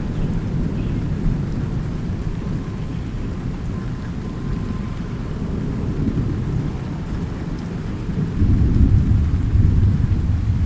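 Rain falling with a low, rolling rumble of thunder underneath; the thunder swells louder about eight seconds in.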